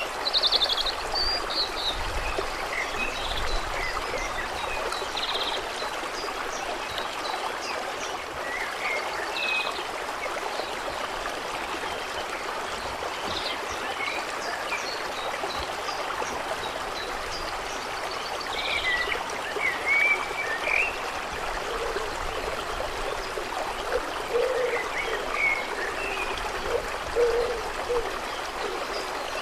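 Steady trickle of running water at the edge of a lake, with scattered short bird chirps over it and a few low calls about three quarters of the way through.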